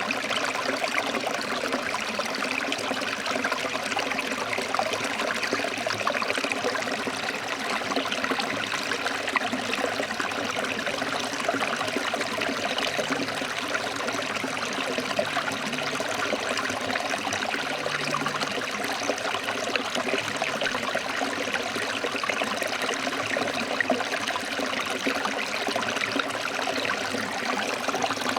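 Shallow stream water flowing and splashing over rocks, a steady, even rush with fine trickling detail.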